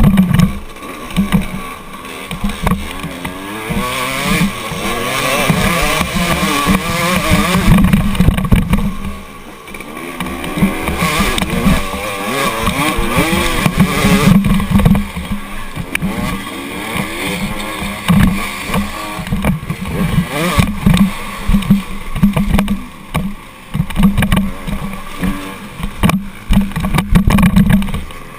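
Dirt bike engine revving up and down in repeated rising and falling sweeps as it is ridden, under a heavy, choppy low rumble.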